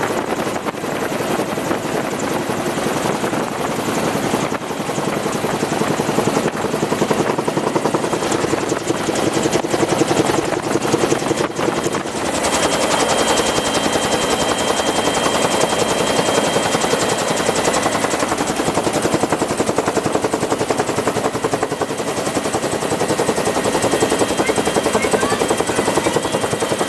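Bell UH-1 Huey helicopter running, its main rotor beating rapidly and steadily under the engine noise. About halfway through, a thin high steady whine comes in.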